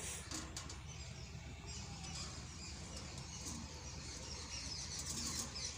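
Small birds chirping repeatedly in the background, with a few faint clicks about half a second in.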